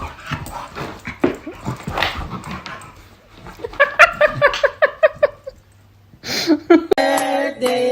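A dog whimpering in a quick run of short, high yips about halfway through, after a few seconds of scuffling and clicking. Near the end, music with singing starts.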